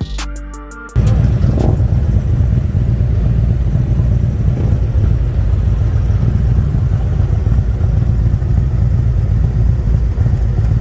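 Harley-Davidson motorcycle running steadily down the road, a loud, dense low exhaust rumble that cuts in sharply about a second in, as background music stops.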